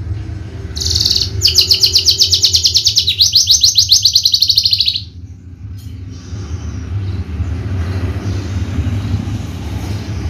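Javan bush lark (branjangan, Mirafra javanica) singing a loud, fast trill of rapidly repeated high notes for about four seconds, then falling silent. A low rumble runs underneath throughout.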